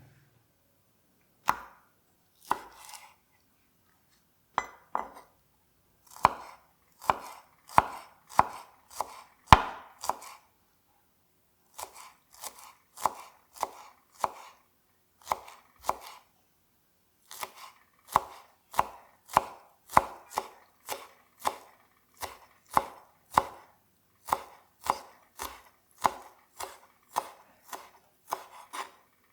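Knife chopping on a cutting board: a run of sharp single strokes, about one to two a second, broken by a few short pauses.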